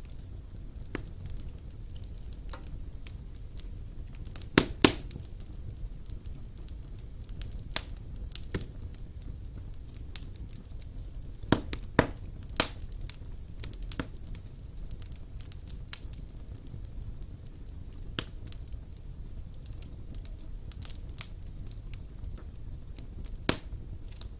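Wood fire burning in a fireplace: a steady low rumble of the flames with irregular sharp crackles and pops from the burning logs, a few louder double pops among them.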